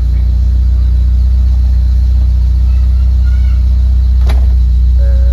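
Honda Accord Maestro's engine idling steadily, with one sharp click about four seconds in.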